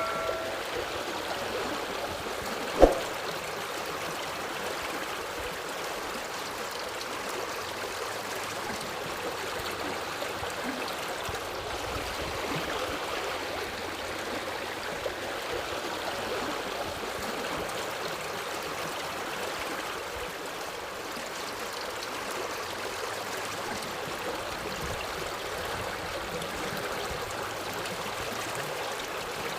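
Forest river flowing in a steady, even rush of water. A single sharp knock sounds about three seconds in.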